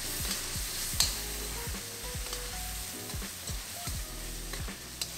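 Chicken and tomato sauce sizzling in a carbon steel wok over high heat while a metal spoon stirs the spices in, with a sharp click about a second in.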